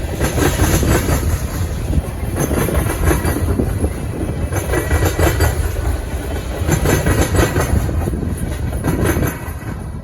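Freight cars of a mixed manifest train rolling past, wheels clicking over the rail joints with a heavy rumble. The sound drops a little near the end.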